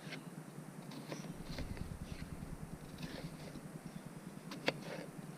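Hand-cranked apple peeler-corer-slicer being turned: a run of light clicks and knocks, with one sharper click near the end.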